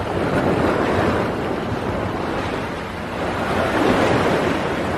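Sea surf and wind rushing across the microphone, a loud steady noise that swells about a second in and again near the end.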